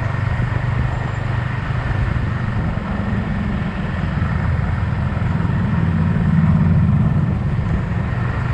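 Yamaha XSR 155's single-cylinder engine running under way. The pitch climbs a little as the revs rise, it is loudest a little past the middle, then eases off.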